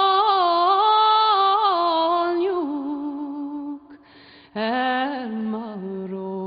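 A single voice chanting in long held notes that slide gently up and down, breaking off briefly just before four seconds in and then taking up another long held note.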